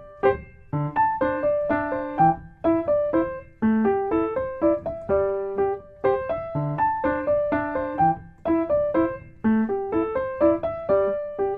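Background piano music: single notes struck one after another in a light repeating melody, each note ringing and fading.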